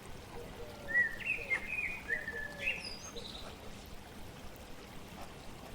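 A songbird sings one short phrase of quick chirping notes, about a second in, that climb in pitch toward the end, over the steady rush of flowing water.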